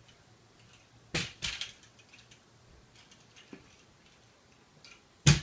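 Toy monster trucks knocking and clattering against a hard surface, in a few separate sharp knocks, two about a second in and the loudest near the end.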